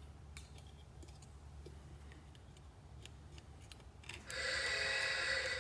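Faint small clicks over a low hum, then about four seconds in a mobile phone starts ringing loudly with an electronic ringtone.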